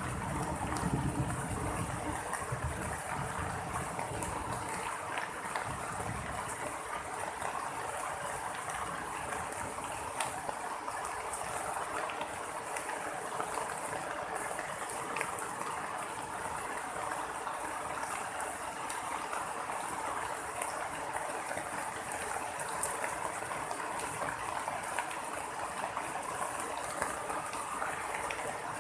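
Steady heavy rain falling during a thunderstorm downpour, an even hiss with scattered small ticks of drops.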